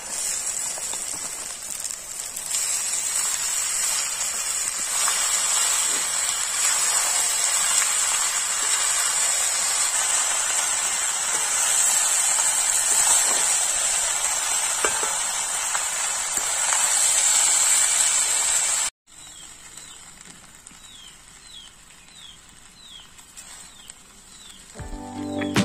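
Rice frying with a steady sizzle in a black iron kadai over a wood fire while a spatula stirs and turns it. The sizzle cuts off suddenly about two-thirds of the way through, leaving a quieter stretch with a few faint chirps, and guitar music comes in at the very end.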